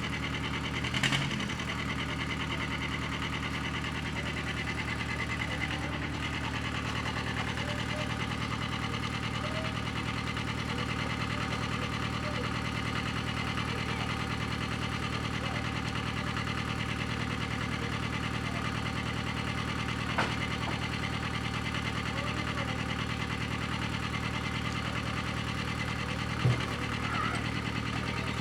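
Tractor engine running at a steady speed throughout, with a few brief clunks along the way.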